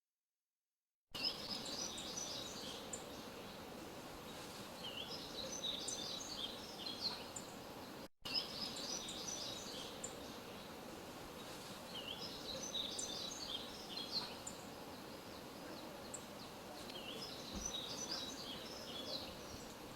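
Small birds chirping and twittering in clusters every few seconds over a steady background hiss. The sound starts about a second in and drops out briefly near the eight-second mark.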